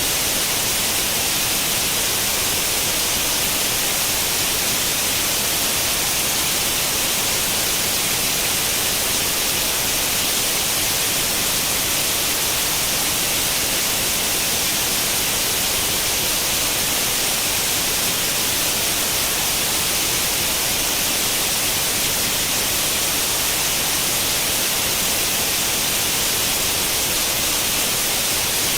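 Steady, unbroken white noise like the static hiss of an analog tube TV tuned to no channel, strongest in the high frequencies.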